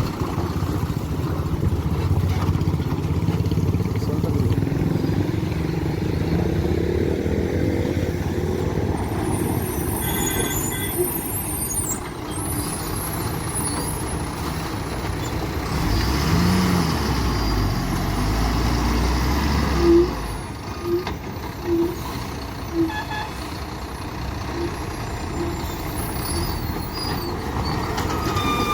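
Heavy loaded diesel trucks running slowly on a mountain road, their engines making a steady low drone, with brief high squeals and a few sharp hisses typical of air brakes. In the second half comes a run of short, evenly spaced beeps about once a second.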